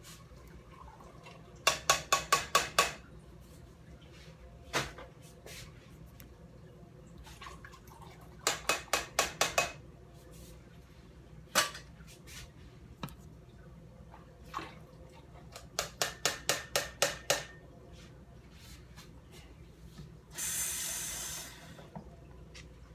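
Metal kitchenware clinking in three quick runs of six or seven ringing strikes, with a few single clinks between. Near the end, a short rush of water from a tap.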